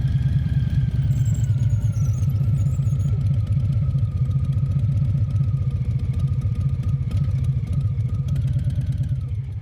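Harley-Davidson Fat Bob 114's Milwaukee-Eight 114 V-twin idling with a steady, even pulsing beat, then shut off right at the end.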